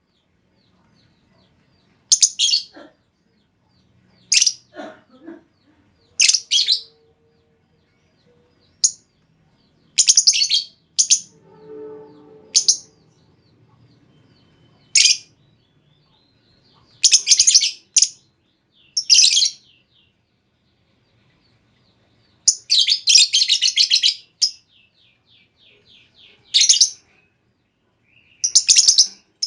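Female lovebird giving short, shrill chirps every one to three seconds, with a run of rapid chattering lasting about two seconds near the three-quarter mark.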